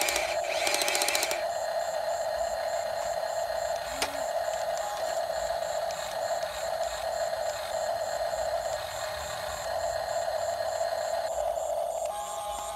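Small electric motor of a radio-controlled toy construction vehicle running with a steady whine and a fast, even ticking of about three ticks a second. A few pulsing bursts sound at the very start.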